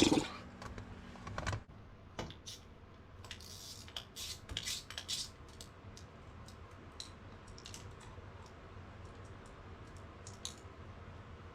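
Scattered light metallic clicks and clinks of hand tools being worked on a starter's mounting bolts, irregular rather than a steady ratchet rhythm, busiest a few seconds in.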